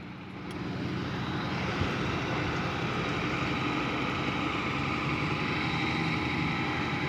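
A vehicle engine running steadily as the rider moves off, growing louder over the first second or so, with road and wind noise.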